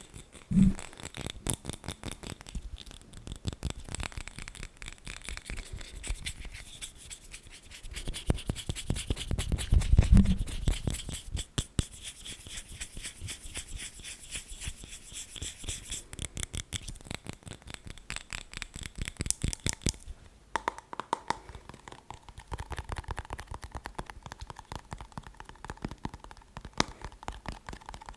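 Fast, dense tapping and scratching on a hard object, with a louder rubbing swell about ten seconds in. About twenty seconds in the texture changes, as if to another surface, with a faint ringing tone under the taps.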